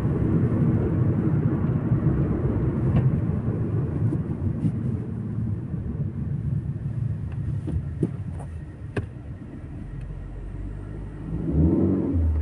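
Car road noise, a steady low rumble that grows quieter in the second half, with a few clicks about eight seconds in.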